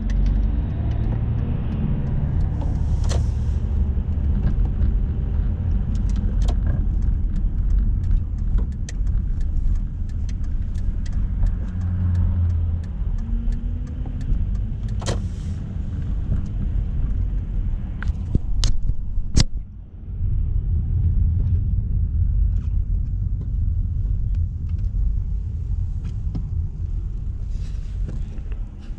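Car driving, a steady low rumble of engine and road noise with scattered small clicks and knocks; the rumble drops briefly about two-thirds of the way through.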